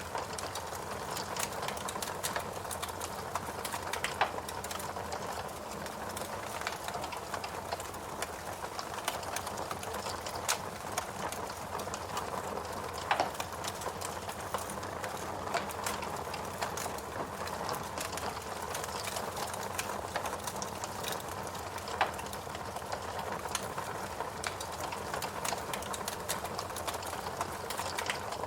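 Log fire burning in a fireplace, crackling steadily with many small snaps and a few louder pops standing out.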